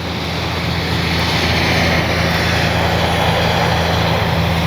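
E-flite Piper Cherokee RC airplane's electric motor and propeller buzzing steadily in flight, the sound swelling a little about two seconds in.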